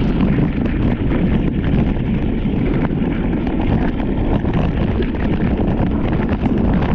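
Steady wind noise buffeting the microphone of a moving motorcycle, with engine and road noise underneath.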